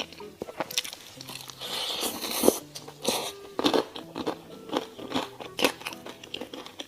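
Crispy fried chicken being bitten and chewed, with repeated sharp crunches; the loudest crunch comes about two and a half seconds in. Soft background music plays underneath.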